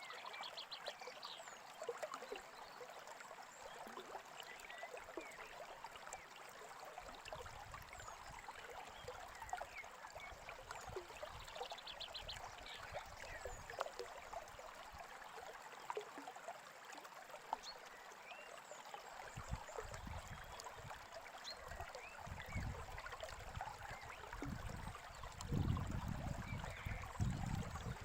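A small stream babbling steadily, with birds chirping, including two quick rapid trills, one near the start and one about twelve seconds in. A deeper low rumble joins the water about two-thirds of the way through and grows toward the end.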